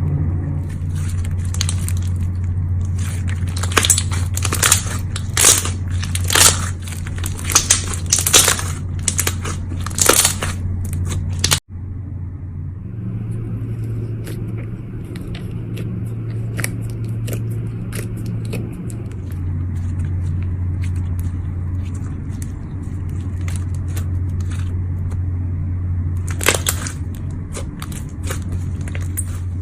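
Slime being squeezed and pressed by hand, giving crisp crackling clicks, dense for the first ten seconds or so and sparser after an abrupt cut near the middle, with one louder click near the end. A steady low hum runs underneath.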